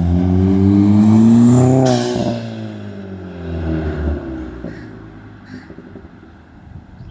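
Turbocharged four-cylinder of a Ford Fiesta ST with a catless downpipe and a 3-inch cat-back exhaust, accelerating hard with the engine note rising. About two seconds in there is a short burst of noise. The pitch then falls and the sound fades as the car moves away.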